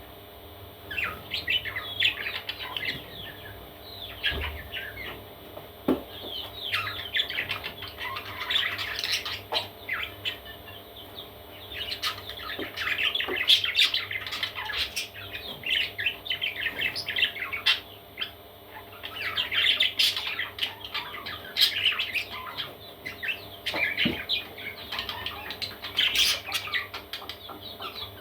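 Parrot chicks squawking and chirping: quick, high, scratchy calls in busy clusters, with short lulls between them.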